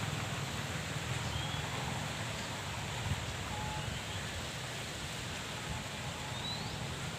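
Outdoor ambience: a steady low rumble and hiss, like wind on the microphone, with a few faint short chirps, like a bird's, scattered through it.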